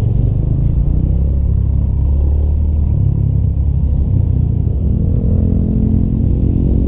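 Rusi Classic 250 motorcycle's engine running while riding, with low wind rumble on the microphone; the engine pitch rises about five seconds in as it accelerates.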